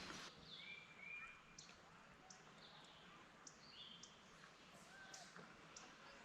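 Faint birds calling: a scattering of short, clear whistled notes and chirps over a quiet background.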